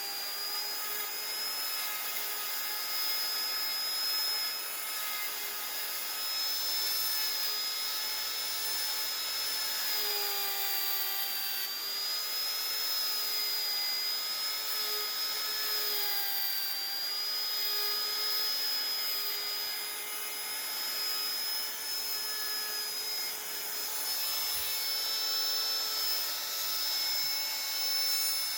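Electric rotary carving tool running at high speed and cutting into wood: a steady high whine that dips slightly in pitch now and then as it bites, over a rasping hiss of wood being ground away.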